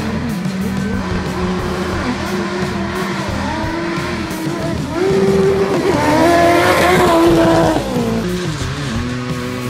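Dirt bike engines at racing speed, revving up and dropping back as riders shift and throttle through the track. The loudest bike comes by from about five seconds in, its pitch climbing and then falling away just before eight seconds.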